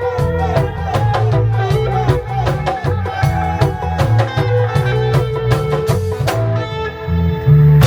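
Reggae band playing an instrumental stretch, with a heavy bass line, guitar and a drum kit keeping an even beat. The cymbals and drums drop out briefly near the end.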